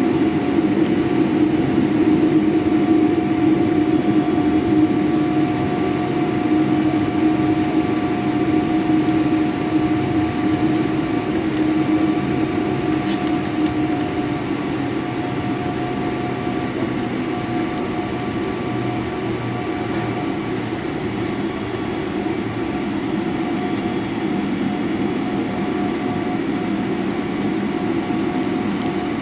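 Airliner cabin noise inside a Boeing 777-300ER: the steady hum of its GE90 engines over a rumble, with a few thin steady whining tones. The deeper part of the hum eases about halfway through and the level drops slightly.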